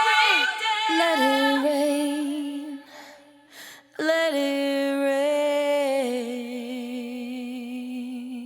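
Unaccompanied female voice holding the song's long final sung notes: a held note, a short breath about three and a half seconds in, then a second long note that steps down in pitch about six seconds in and fades out at the end.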